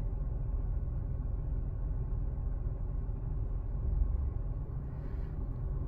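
2019 Nissan Micra K14 engine idling: a steady low rumble.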